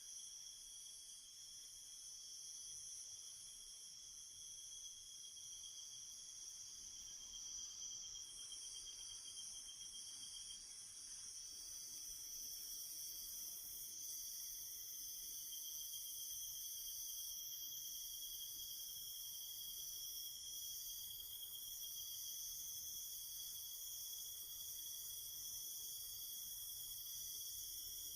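Quiet night ambience of crickets trilling in a steady chorus. One of the trills drops out for a few seconds around the middle, then comes back.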